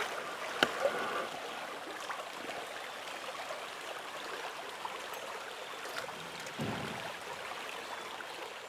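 Trout stream water running steadily, with a sharp click about half a second in and a short low thud near the end.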